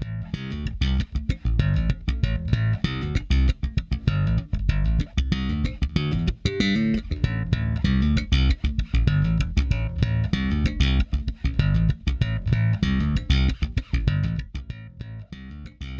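Bass guitar playing a busy line of short plucked notes, run through a dbx 160-style VCA compressor plugin.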